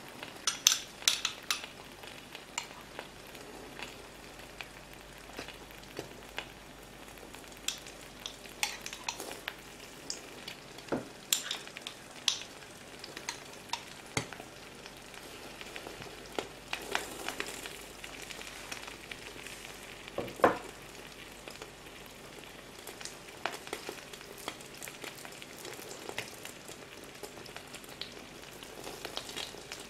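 Eggs, salami and cherry tomatoes frying in olive oil in a pan: a steady sizzle with scattered sharp pops and crackles of spitting oil, one louder pop about two-thirds of the way through.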